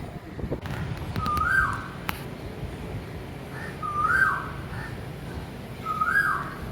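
A bird repeating a clear whistled call three times, about every two and a half seconds; each call steps up in pitch, then drops away, over a steady low outdoor rumble.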